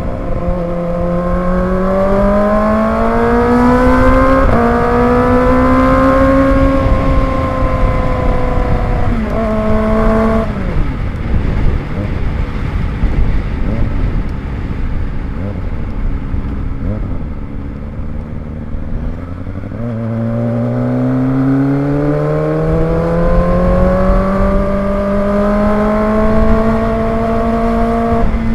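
Kawasaki ZX25R's 250 cc inline-four engine accelerating hard, its note climbing and then dropping abruptly at each upshift. About ten seconds in the throttle closes and the engine note fades under a low rushing noise. Near twenty seconds it pulls again in one long rising climb, then drops at a shift near the end.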